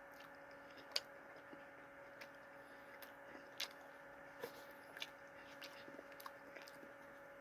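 Faint chewing of a mouthful of fried chicken, with scattered soft clicks and crunches, the loudest about a second in, over a faint steady hum.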